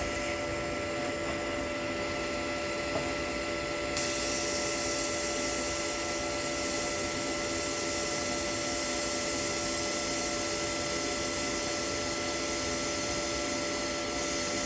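Lift-arc DC TIG welding arc from a Toolion MIG-180 Pro, a steady hiss with a constant whine from the welder underneath. The hiss grows louder about four seconds in.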